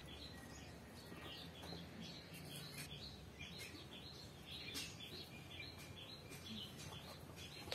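Faint chirping of small birds, many short chirps scattered throughout, over quiet background noise.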